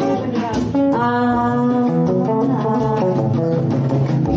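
Live band music with a guitar prominent, holding sustained chords.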